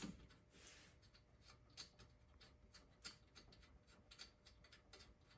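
Near silence with faint, scattered light clicks and ticks, such as small metal tool handling.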